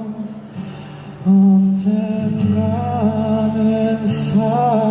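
Live performance of a slow ballad: a soft quiet stretch, then a sustained low backing chord comes in about a second in, and the male singer's voice returns with the next line near the end.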